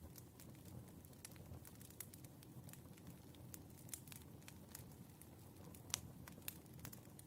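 Faint crackling of burning firewood: frequent small pops and snaps, with one sharper pop about six seconds in.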